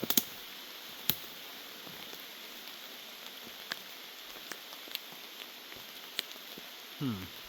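Steady heavy rain hissing, with sharp taps of drops striking close to the microphone, the loudest about a second in. A brief falling vocal sound from a man comes near the end.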